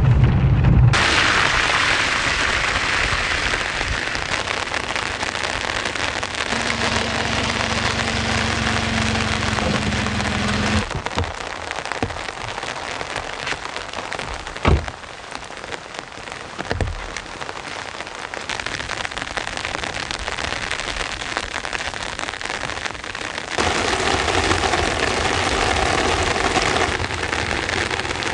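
Heavy rain pouring steadily, a dense hiss of drops on surfaces. Its texture shifts about a second in, again around 11 seconds, and near the end. A faint low hum runs under it for a few seconds before the middle, and a couple of single drips or knocks stand out in the middle.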